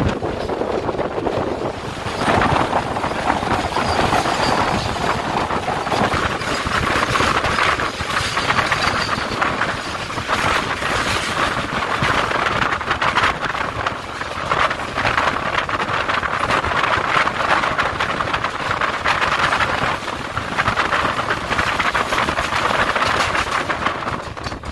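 Rail noise heard from the open doorway of a moving passenger train as a long container freight train clatters past on the next track, the sound a dense, steady rush of wheels and wagons. A faint high squeal rides over it for a few seconds about four seconds in.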